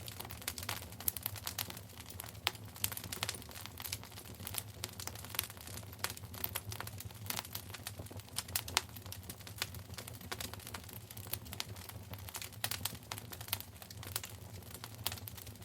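Wood fire crackling in a fireplace: dense, irregular pops and snaps over a steady low background.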